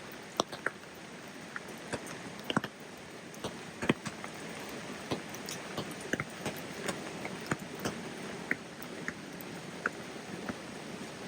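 Rain falling: a steady hiss with irregular sharp ticks of single drops landing close by, several of them loud.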